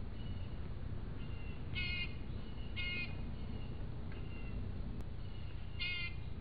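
A bird calling: three short, harsh calls at about two seconds, three seconds and near the end, with fainter thin calls in between, over a steady low rumble.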